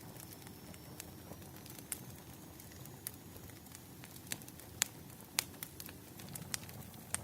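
Burning firewood crackling: irregular sharp pops and snaps over a low steady rustle of flame.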